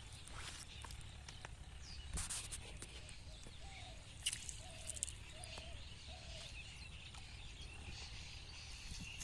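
Faint rural outdoor ambience: a low steady background hiss and rumble, a few light rustles and taps, and a bird calling four short times in a row near the middle.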